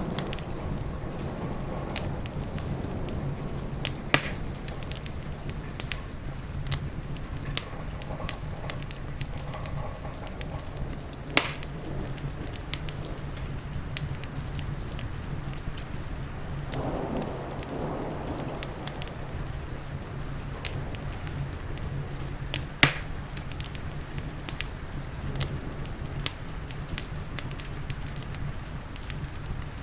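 Wood fire crackling, with scattered small pops and a few louder snaps, over a steady hiss of rain and a low rumble.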